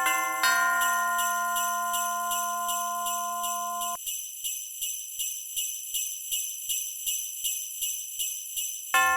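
Sleigh bells jingling in a steady beat, about two shakes a second, over a held chord that cuts off suddenly about four seconds in, leaving the bells on their own. It sounds like a recorded Christmas music track.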